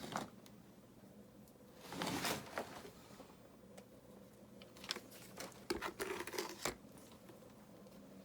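River rocks being handled and set into wet mortar: a scraping rub about two seconds in, then a run of short stony clicks and knocks near the end.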